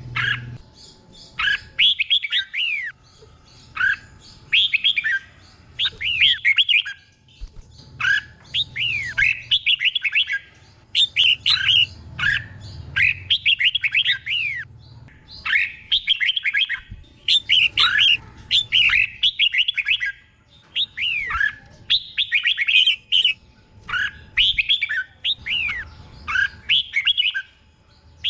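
Red-whiskered bulbul singing: short, loud, whistled song phrases of quick sweeping notes, repeated every second or two and often doubled back to back. This is the 'double' phrasing that keepers prize in a teacher bird.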